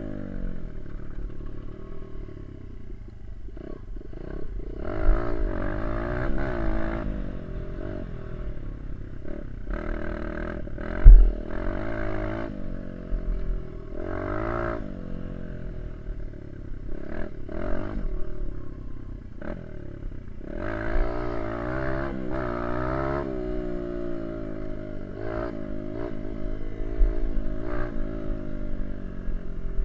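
Small single-cylinder dirt bike engine being ridden, revving up and falling back over and over as the rider works the throttle and gears. There is a sharp thump about eleven seconds in.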